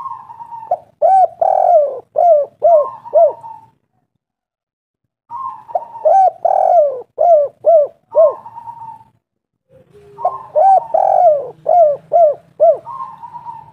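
Spotted dove (tekukur) cooing: three song phrases, each opening with a longer note and followed by a run of about six short, quick coos, with short pauses between phrases.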